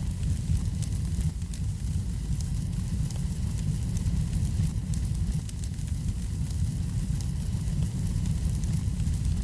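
Wood fire burning in a fireplace: a steady low rumble with faint, scattered crackles.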